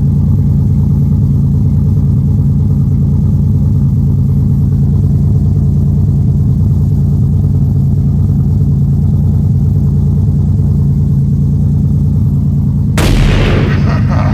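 Turbocharged Buick 3.8-litre V6 engine running loud through its exhaust, a steady deep pulsing rumble. Near the end it changes suddenly, with a burst of higher, rougher noise on top.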